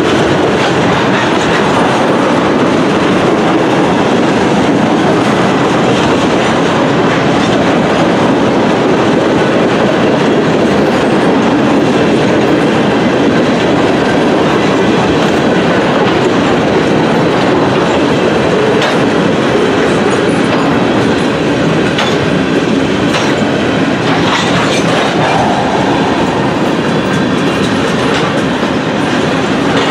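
Railroad tank cars of a long freight oil train rolling by: a steady, loud rumble of steel wheels on the rails, with occasional clicks.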